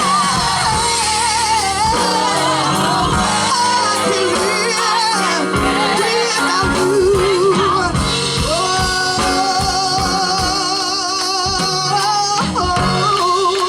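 Gospel group singing with band accompaniment; a lead voice holds long notes with a wide vibrato over a steady beat.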